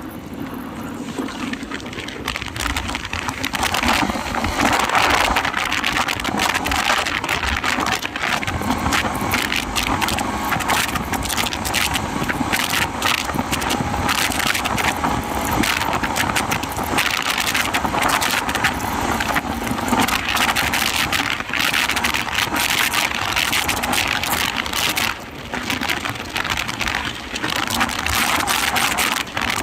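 Wind buffeting and crackling across the microphone of a moving motorcycle, over a steady rush of engine and road noise.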